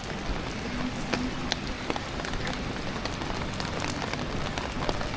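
Steady rain falling on a city street, with many scattered sharp drips and patters of drops.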